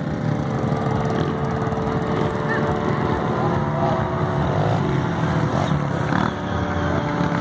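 Motocross dirt bike engines running steadily at the track, with people talking faintly in the background.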